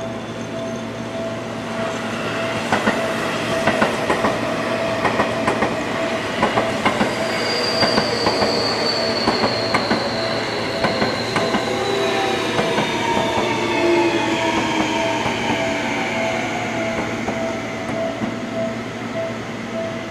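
Seibu 30000-series electric train arriving and braking: wheels clatter over rail joints for the first half. Then the traction motors whine down in pitch as it slows to a stop. A level-crossing warning bell rings in steady pulses throughout.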